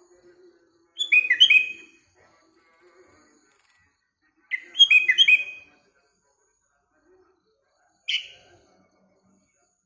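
Sooty-headed bulbul (kutilang) singing: two short phrases of quick, repeated down-slurred whistled notes a few seconds apart, then a single short call near the end.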